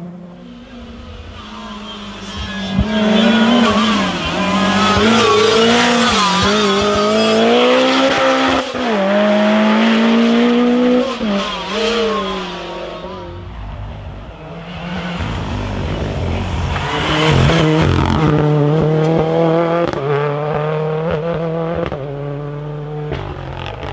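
Rally car engine revving hard, its pitch climbing and dropping sharply through gear changes and lifts. It is loud through most of the first half, dips around the middle, then comes loud again before fading near the end.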